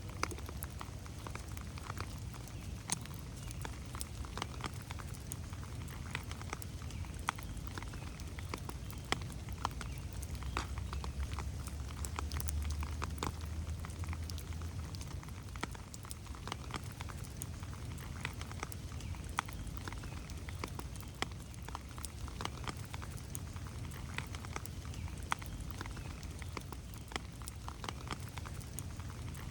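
Steady rain, with many individual drops pattering and ticking on leaves and surfaces, over a low rumble that swells for a few seconds around the middle.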